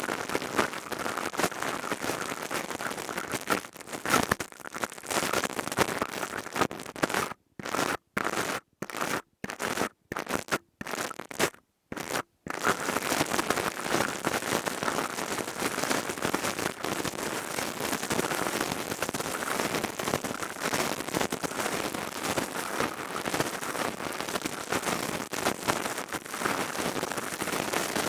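Crystal tube worked against an ASMR microphone, giving a dense, steady crackling and scratching. It is broken by several brief cuts to dead silence about a third of the way through.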